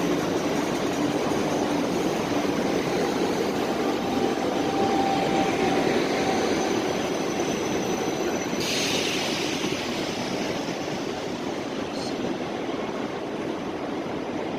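Train moving through a railway station: a steady rumble that slowly fades over the second half, with a brief burst of hiss about nine seconds in.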